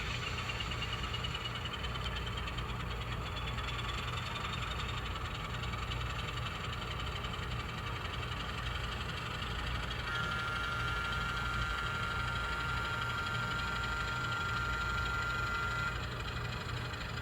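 N scale model Alco locomotive running on the layout: a small motor whine rising in pitch over the first few seconds over a steady low hum, with a steady high tone joining about ten seconds in and stopping about six seconds later.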